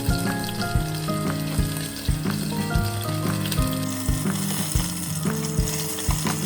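Food frying and sizzling, the sizzle growing stronger about four seconds in, under background music with a steady beat.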